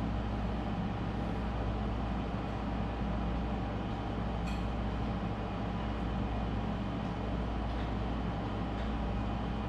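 Steady low mechanical hum, with one faint click about four and a half seconds in.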